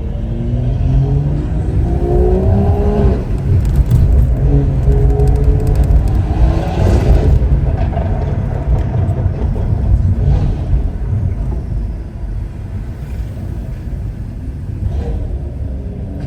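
Stage 2 tuned BMW 540i with a custom exhaust accelerating hard. The engine note climbs through the revs, breaks at a gear change about three seconds in, climbs again to its loudest around seven seconds, then eases off.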